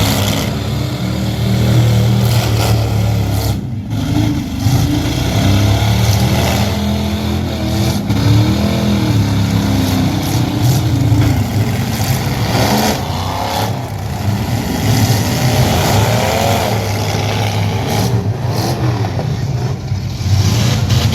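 Truck engine running loud and continuously, its pitch rising and falling as it revs.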